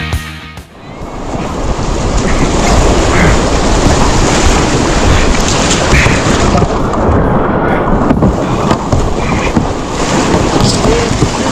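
Rushing whitewater with wind buffeting the microphone, a loud, rough, continuous roar. Music cuts off right at the start.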